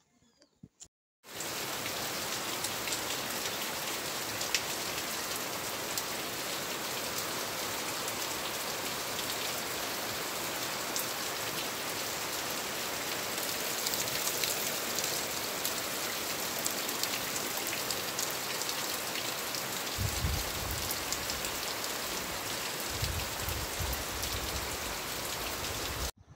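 Steady rain falling, an even hiss that starts about a second in. A low rumble joins it twice near the end.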